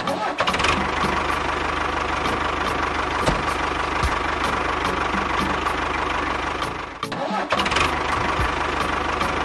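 A small engine running steadily, with a short drop in level about seven seconds in before it carries on.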